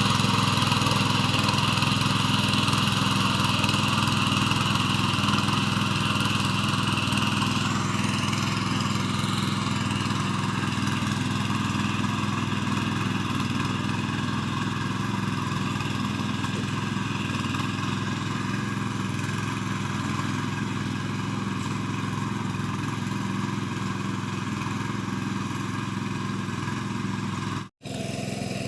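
Mini tractor engine running steadily while ploughing a field, slowly getting fainter, with a momentary dropout in the sound near the end.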